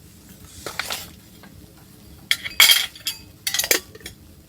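Three short bursts of scraping and clinking, like gear or utensils being handled, over a faint steady background; the loudest comes a little past halfway.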